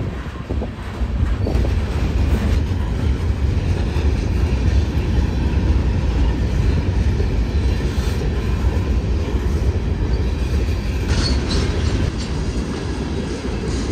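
Freight cars rolling past close by: a steady low rumble of steel wheels on rail. About eleven seconds in come a brief high wheel squeal and a few sharp clacks.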